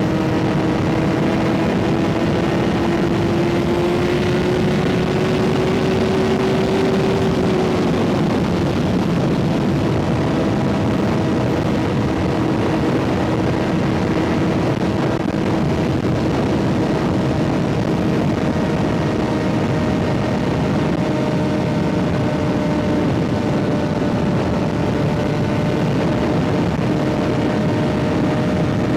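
Kawasaki ZX-6R 636's inline-four engine with an M4 aftermarket exhaust, running at a steady cruising pitch under wind and road noise. The pitch rises a little a few seconds in and eases back down about eight seconds in.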